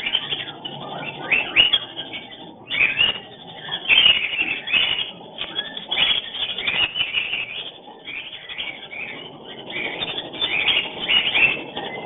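Cockatiels calling over and over in quick, chirping and whistling phrases that rise and fall without a break, the calls this pair makes when breeding.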